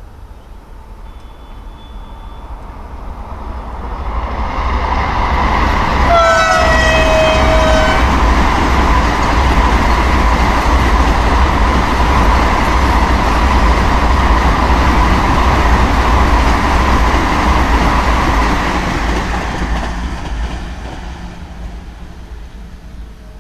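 A train passing at speed: its rumble builds, stays loud for about thirteen seconds, then fades away. The locomotive horn sounds one blast of about two seconds as it nears, its pitch dropping slightly.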